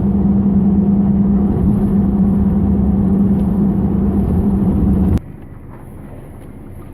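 Car driving, heard from inside: a loud, steady rumble of engine and road noise with a steady hum. It cuts off abruptly about five seconds in, leaving a much quieter background.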